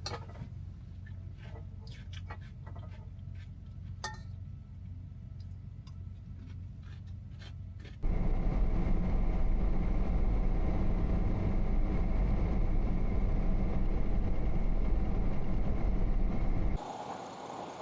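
A truck cab's steady low hum with scattered light clicks and taps, then, from a sudden cut about eight seconds in, a much louder steady low rumble of the semi truck running on the road for about nine seconds before it drops back to a quieter hum.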